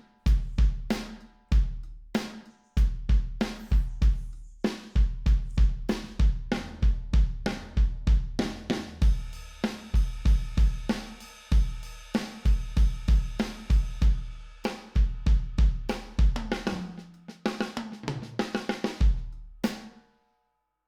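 Sampled acoustic drum kit from BFD3 drum software playing a groove pattern, with kick drum, snare, hi-hat and cymbals. There is a thicker wash of cymbals in the middle, and the beat stops near the end.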